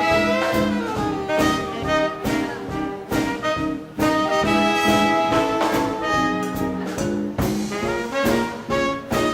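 Live 1940s-style swing band playing an instrumental passage: horns over a steady drum beat.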